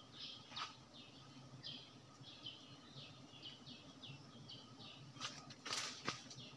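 A small bird calling in a quick, steady series of short high chirps, each sliding down in pitch, about two or three a second. About five and a half seconds in there is a brief rustle of leaves and branches.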